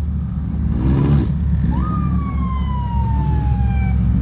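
Car engines rumbling at idle, with one engine revving briefly about a second in. Then a high whine jumps up and slowly falls in pitch over about two seconds.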